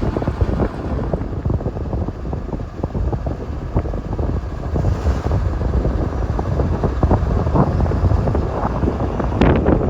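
Wind buffeting the microphone over the rumble of a moving vehicle, in uneven gusts.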